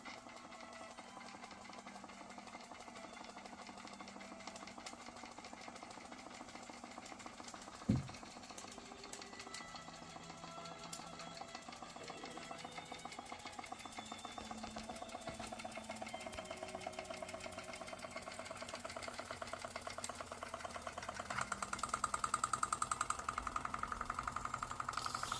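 Antique Georges Carette toy steam engine running, with a fast, even chuffing rhythm that is faint at first and grows louder over the last few seconds. The boiler has too much water in it. A single thump comes about eight seconds in.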